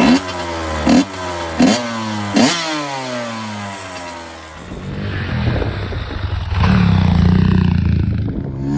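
Motorcycle engine revved in four quick blips, each falling back down, then revving up again and holding high revs near the end.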